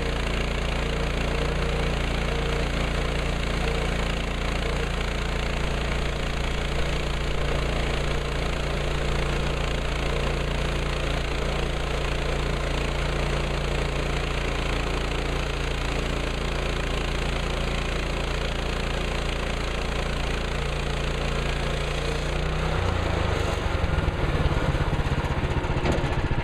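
Gasoline engine of a Woodland Mills HM130MAX portable bandsaw mill running steadily at a constant speed. Near the end its note changes and turns rougher.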